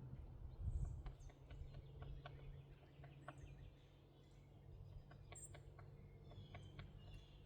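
Small birds chirping faintly outdoors, short high calls and ticks scattered through, over a steady low rumble.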